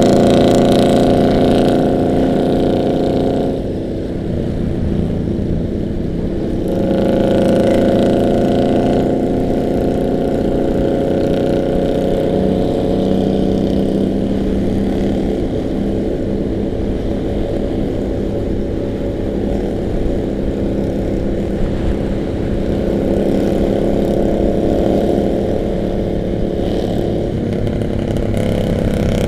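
Harley-Davidson motorcycles' V-twin engines running on the move, with the engine note shifting as the throttle changes. It dips about four seconds in and swells back up a few seconds later.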